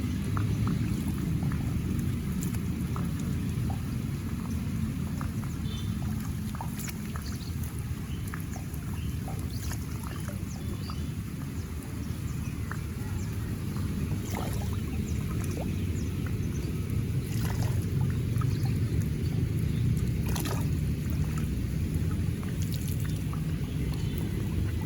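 Steady rush of water flowing along a pool's outflow channel, with scattered small splashes and ticks throughout.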